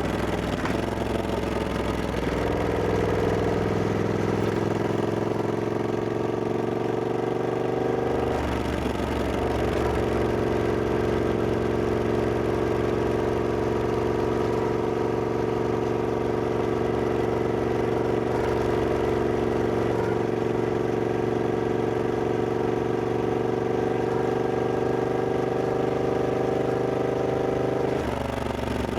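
Triumph Scrambler 1200X's parallel-twin engine running steadily under way, its note holding nearly constant, with a brief dip about eight seconds in and a drop near the end.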